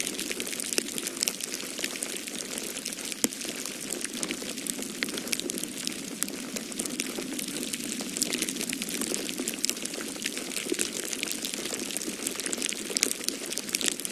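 Wood fire crackling in a fireplace: a dense, irregular run of small sharp pops and snaps over a steady rushing hiss.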